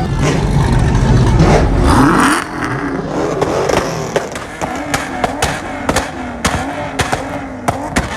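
A loud car engine revving hard for about the first two seconds, then dropping back, with sharp cracks throughout.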